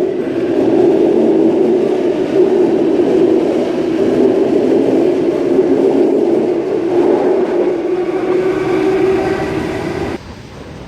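Waratah Series 1 electric train departing, its traction motors giving a loud steady hum, with a higher whine coming in and rising about seven seconds in. The sound drops off abruptly near the end.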